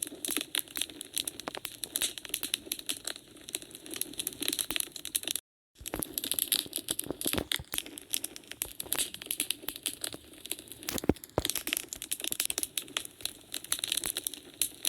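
Wood fire in a fireplace crackling, with many small irregular pops and snaps. The sound cuts out completely for about half a second roughly five and a half seconds in, then resumes.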